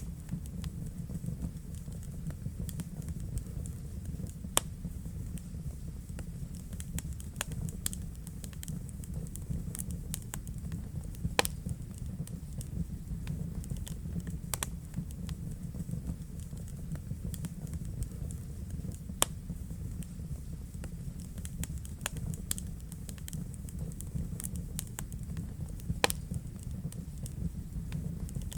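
Wood fire burning in a fireplace: a steady low rumble of the flames with frequent small crackles and a few sharper pops.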